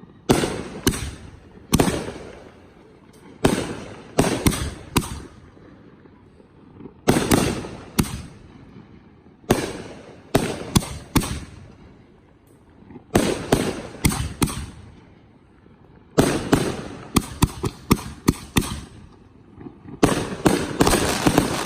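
Professional 1.3G display fireworks bursting in volleys of sharp bangs, several in quick succession every two seconds or so, each volley trailing off in a rumbling echo. The bangs come thicker and closer together near the end.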